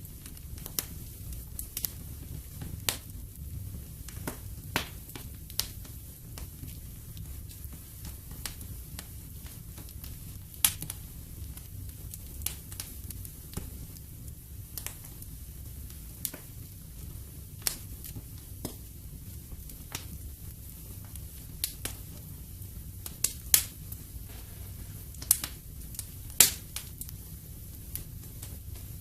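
Wood fire in a fireplace crackling, with irregular sharp pops over a steady low rumble of the flames. A few pops are louder, one near the middle and several in the last few seconds.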